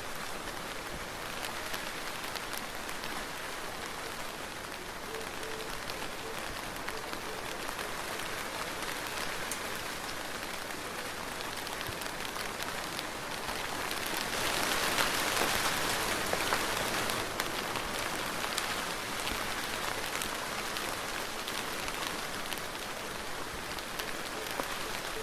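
Steady soft rain, a dense even hiss with many small drop ticks, swelling louder for a few seconds just past the middle before settling back.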